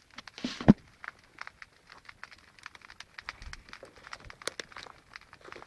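Irregular crackling and snapping of a large bonfire of logging slash burning, with a louder knock about half a second in.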